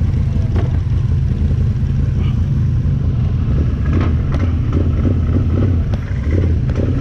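Can-Am 1000 off-road vehicle's engine running with a steady low rumble, with a few light knocks partway through.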